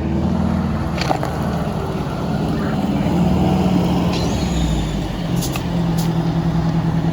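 Fire engine's diesel engine running steadily as the truck pulls up, with a few sharp clicks and a short high squeal about four seconds in.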